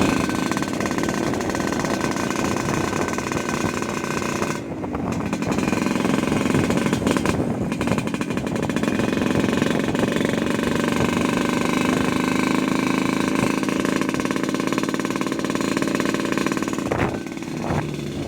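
Yamaha RX-King's two-stroke single-cylinder engine running through an aftermarket under-belly exhaust, a loud, rapid, rattling note held fairly steady. The note dips briefly about five seconds in and again near the end.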